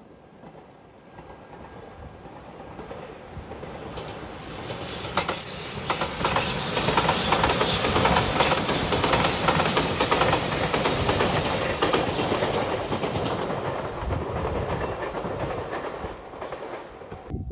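A Shiokaze limited express electric train approaches and runs past at speed, its wheels clicking over the rail joints. It is loudest in the middle and fades a little toward the end.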